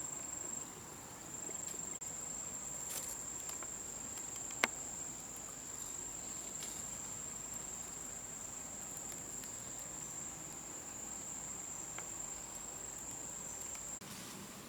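A steady, high-pitched insect drone, of crickets or cicadas, over forest background. A single sharp click sounds about four and a half seconds in.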